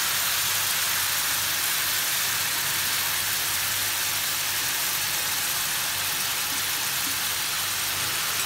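Onion-and-spice masala sizzling in hot oil in a frying pan, a steady hiss with the paste bubbling. The masala is nearly fully fried, the stage at which mustard paste goes in.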